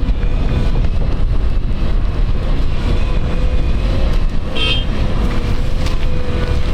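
Jet engines of an Airbus A319neo running, a loud steady low rumble with a faint steady whine; a short high tone sounds about four and a half seconds in.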